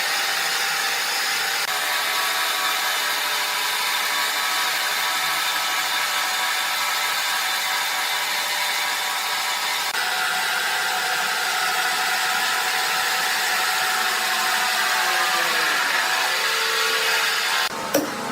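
Sawmill saw running steadily through red oak, a loud hissing whine whose pitch drops a few seconds before the end. Near the end it cuts off abruptly and a few sharp knocks follow.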